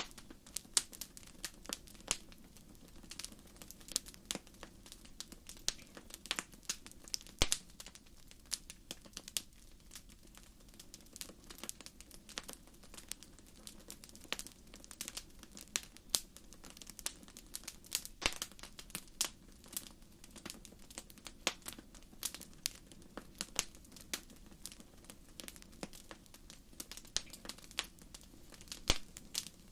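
Wood fire in a fireplace crackling: irregular sharp pops and snaps, often several a second, over a steady low hiss.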